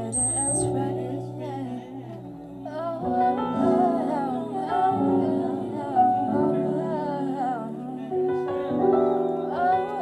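Live band music with keyboard chords and wordless vocal runs over them.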